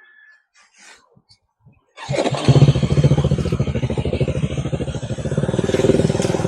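Motorcycle engine starting abruptly about two seconds in, then running with a steady, rapid pulsing beat that swells slightly near the end.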